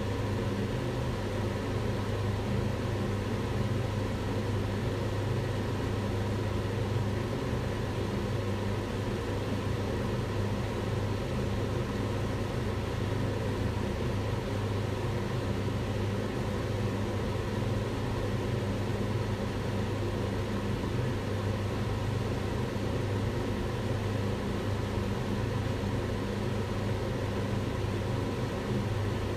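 Kitchen extractor hood fan running steadily: a constant rushing of air over a low motor hum.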